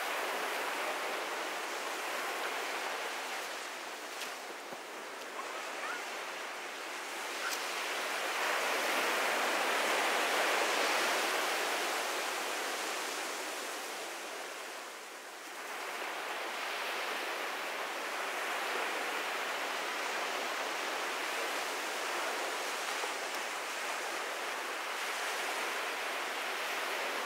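Ocean surf washing onto a beach: a steady hiss of breaking waves that swells about a third of the way through, dips briefly near the middle, then settles back to an even wash.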